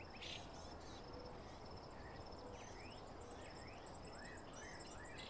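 Faint outdoor ambience of small birds chirping: a fast, high-pitched pulsed trill, and a run of short sweeping chirps about three to four seconds in.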